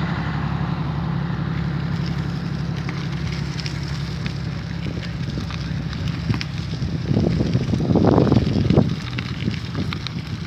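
Wind buffeting the microphone over a steady engine hum that fades about seven seconds in, with scattered crackles and ticks; the wind noise swells around eight seconds in.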